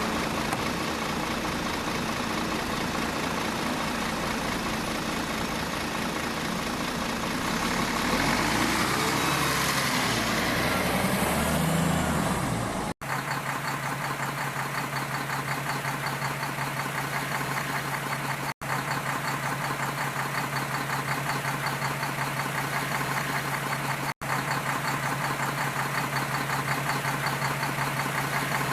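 Engine sound of a truck running. After a sudden cut about halfway through, it becomes a steady idling hum with an even pulse, repeating as a short loop with brief breaks every five to six seconds.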